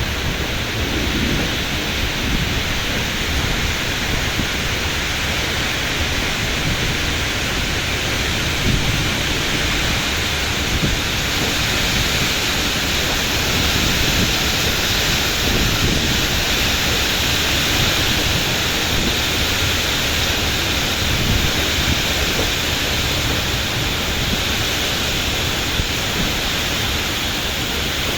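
Strong wind blowing steadily, buffeting the microphone with a low rumble under a loud rushing noise.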